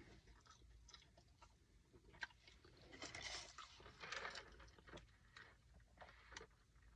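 Faint chewing and biting of food close to the microphone, with soft crunches and small mouth clicks, a little louder about three and four seconds in.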